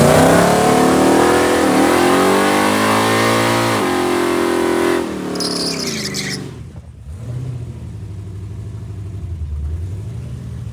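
Drag-racing vehicle accelerating hard at wide-open throttle, engine pitch climbing through the gears with upshifts about 2 and 4 seconds in. It fades about 5 seconds in, leaving a quieter low engine rumble.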